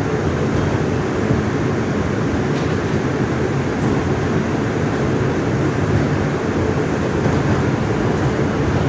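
Inside an R142 subway car running between stations: steady rumble of wheels on the rails and the car's running noise, with no change in level.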